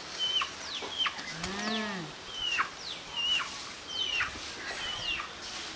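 A bird calls over and over, each call a short high note sliding steeply down, about two a second. Once, about a second and a half in, a short low animal call rises and falls in pitch.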